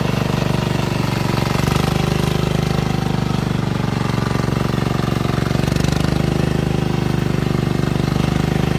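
Tractor engine running steadily, with a fast, even knocking beat.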